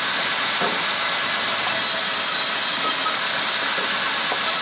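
Woodworking machinery running steadily with an even, hissing whir and no rhythm.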